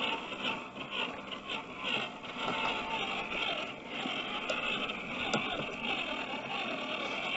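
WPL B-36 RC truck's electric motor and two-speed gearbox whining, the pitch rising and falling with the throttle as it crawls over rocky ground, with a couple of sharp clicks in the middle.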